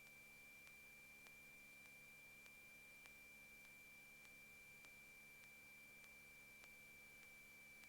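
Near silence: a faint steady high-pitched tone, with faint ticks about every half second.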